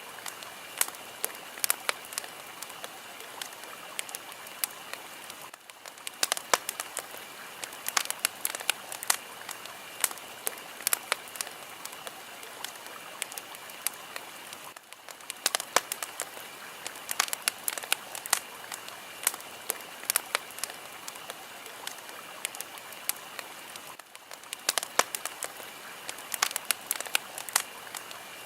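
Fire crackling: a steady hiss with many sharp pops and snaps, dipping briefly about every nine seconds.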